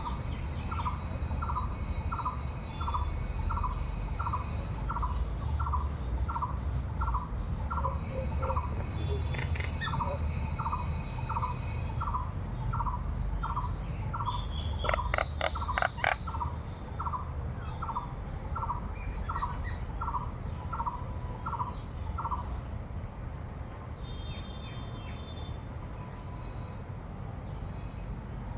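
A bird repeating a short call about one and a half times a second, with a brief pause about nine seconds in and stopping a few seconds before the end. Steady high insect trilling runs behind it, with a few sharp clicks about halfway through.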